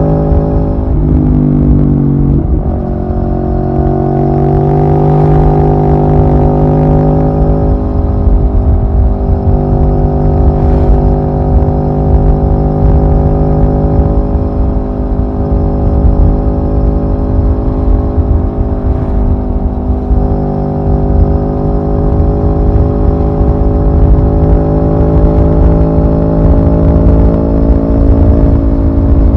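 Aprilia Tuono V4 R's V4 engine running under way. Its pitch dips and then climbs again one to three seconds in, then holds fairly steady with small rises and falls, over a low rumble.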